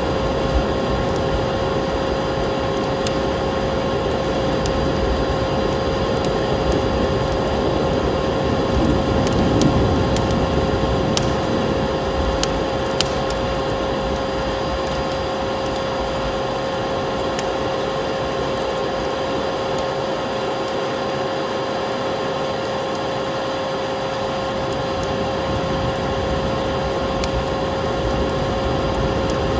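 Vacuum cleaner running steadily, a constant motor drone with a held hum, layered with a wood fire's scattered crackles and pops.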